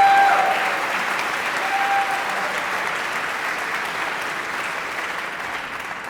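Audience applauding, the clapping slowly fading away, with a brief whistle or cheer near the start.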